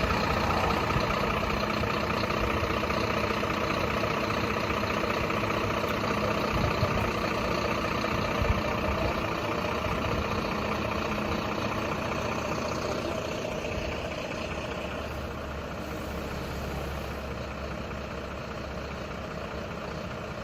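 Truck engine idling steadily, growing gradually fainter over the last several seconds.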